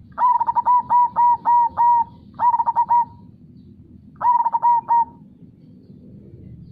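Zebra dove (perkutut) singing three phrases of quick, evenly repeated cooing notes: a long run of about eight notes, then two shorter runs of a few notes each. A low steady rush of flowing river water runs beneath.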